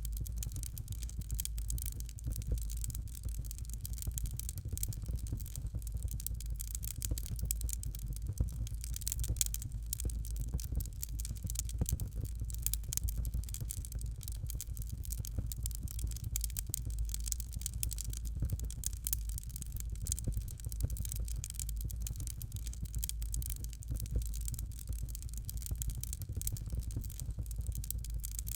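Fireplace fire crackling steadily: dense, irregular small pops and snaps over a low, even rumble.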